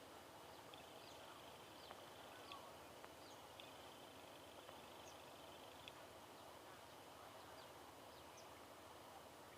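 Near silence: quiet rural ambience with scattered faint, short, high bird chirps and a faint steady high-pitched tone.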